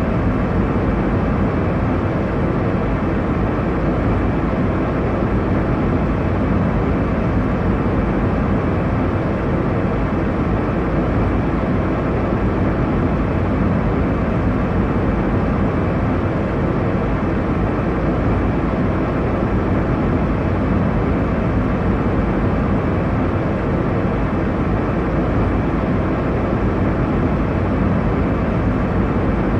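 Airliner cabin noise: a steady, even, deep rush of engine and airflow sound that does not change.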